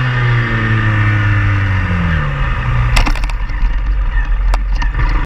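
Honda Grom 125cc single-cylinder engine running, its pitch falling steadily as the bike slows, then a rushing noise with two sharp knocks, one about three seconds in and one near the end.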